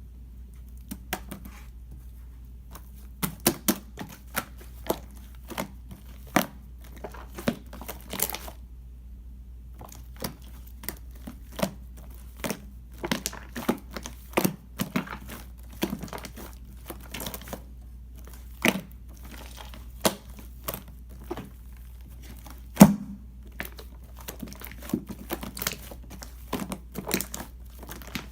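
Clear slime with shaving foam worked into it, being handled, giving irregular sharp pops and crackles as air pockets burst. There is a pause of about a second and a half around nine seconds in.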